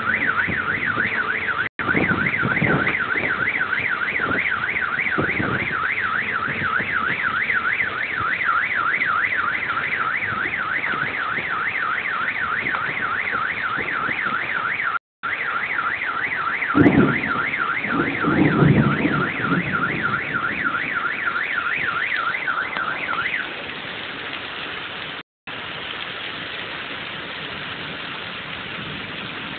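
Car alarm sounding a fast, rapidly repeating warble over the steady hiss of a hail and rain storm. The alarm cuts off about three-quarters of the way through, leaving the rain hiss.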